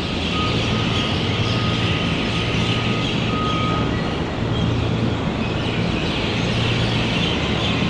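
A dense chorus of common mynahs chattering together in a big tree at dawn, a constant wash of overlapping calls. Under it runs a steady low hum of city machinery or traffic.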